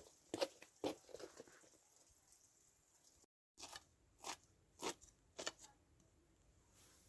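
A series of about a dozen short, sharp clicking sounds, broken by a moment of dead silence a little past three seconds in.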